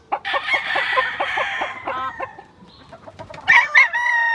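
Chickens clucking in a quick run of short notes for the first two seconds, then a rooster starts a loud, drawn-out crow about three and a half seconds in.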